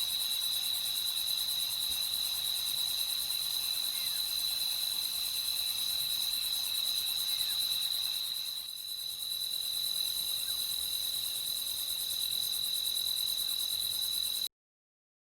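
Night crickets chirring in a steady, continuous high trill, dipping briefly about nine seconds in and then cutting off abruptly near the end.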